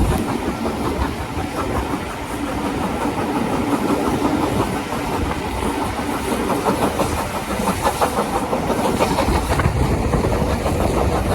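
Heritage railway train running, with a steady dense clatter of wheels over the rails.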